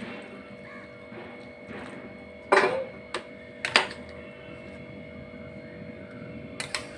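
Kitchen utensils knocking and clinking against a cooking pot a handful of times, the loudest about two and a half seconds in, over a steady background hum.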